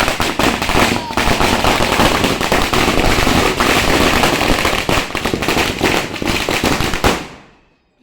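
A 1000-cracker firecracker string (chatai) going off in a dense, rapid, continuous run of bangs, dying away about seven seconds in.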